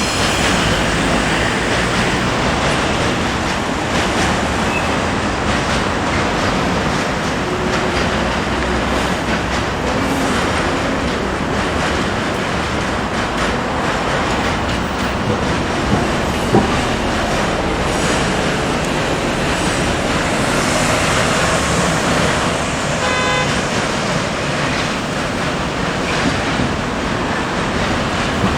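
Train rolling past, a loud steady rumble and rattle of wheels on rails, with a brief pitched tone about three quarters of the way through.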